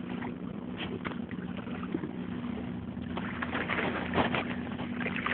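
A tugboat's diesel engine drones steadily at a low pitch across the water, with a burst of rustling, splashy noise from about three to four and a half seconds in.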